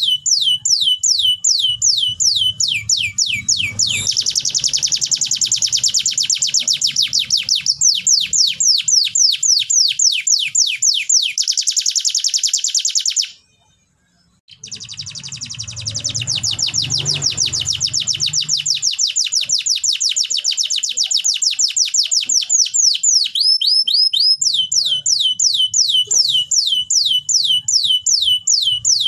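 Domestic canary singing: long rapid trills of quick falling high notes, with stretches of denser, faster rolls. The song cuts off for about a second near the middle, then resumes.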